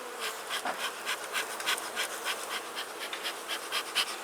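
Honeybees buzzing around an open Langstroth hive: a steady hum with short crackling ticks, about three a second.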